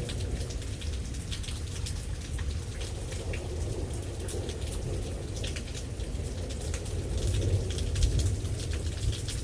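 Rain falling steadily, with many sharp drop hits over a continuous low rumble.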